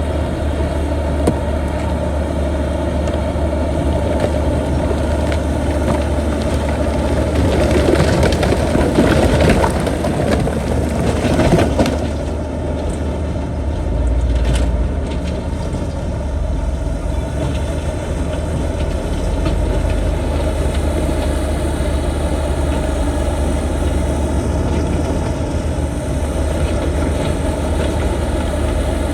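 Diesel engine of heavy earthmoving machinery running steadily. There is a louder, noisier rumbling stretch from about seven to twelve seconds in, which cuts off sharply.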